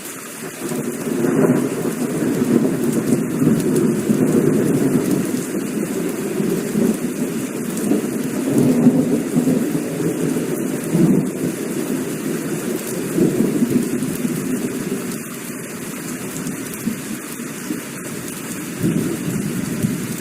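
Heavy rain falling steadily with rolling thunder: a long low rumble builds about a second in, rolls on in waves, then fades, with a shorter swell of thunder near the end.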